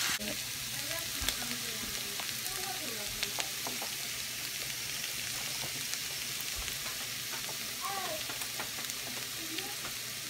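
Sliced carrots and onions sizzling steadily in a frying pan, stirred with a wooden spatula that gives occasional light taps and scrapes against the pan.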